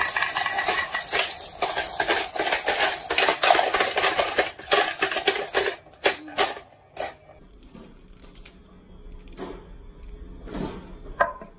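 Many marbles clattering and clicking down a marble run in a dense, rapid stream, which thins to a few separate clicks about six seconds in, followed by a few fainter knocks.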